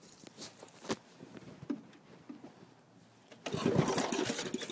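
Briggs & Stratton lawn tractor engine starting up about three and a half seconds in, after a few faint clicks; it is being restarted after stalling, choked by Seafoam smoke.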